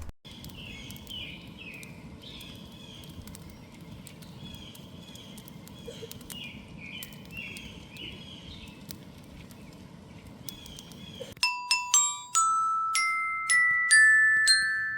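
Steady background noise with repeated short high chirps, then about eleven seconds in a sudden cut to single struck, ringing glockenspiel-like notes, one after another, each dying away.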